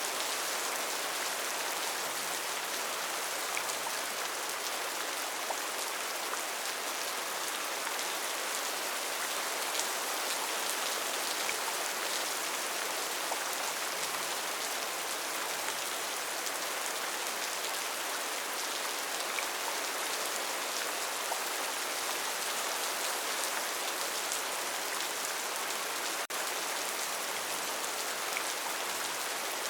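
Steady rainforest rain falling, an even hiss flecked with faint drop ticks.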